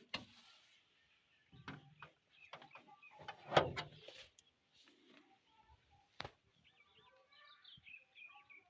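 Faint, scattered knocks and clicks, the loudest a clunk about 3.5 s in, then small birds chirping from about seven seconds in.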